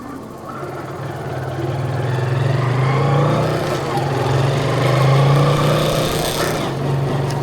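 A vehicle engine running with a steady low hum that grows louder through the middle, with a brief rush of noise about six seconds in.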